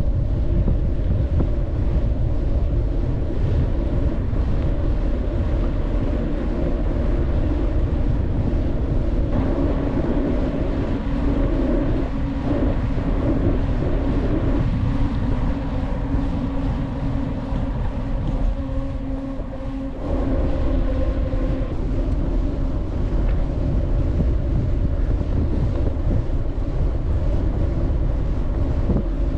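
Wind buffeting the microphone while riding a touring bicycle on the road, with a steady hum from the tyres and moving bike that shifts in tone several times.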